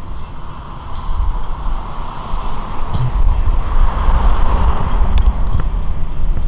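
LIRR passenger train hauled by a DM30AC diesel locomotive pulling in, a deep rumble that grows louder from about two seconds in, with a few faint clicks.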